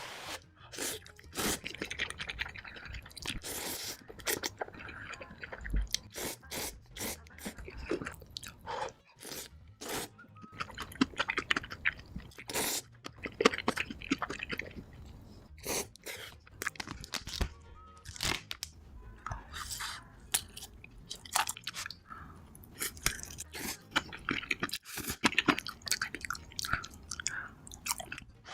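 Close-miked eating: crisp, crunchy bites and chewing, crackling irregularly throughout.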